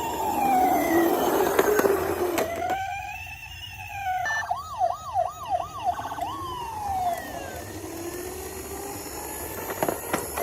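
Toy emergency-vehicle siren wailing in slow rising-and-falling sweeps. About four seconds in it switches to a quick yelp of repeated short sweeps, then ends on a long falling tone, with fainter sweeps after.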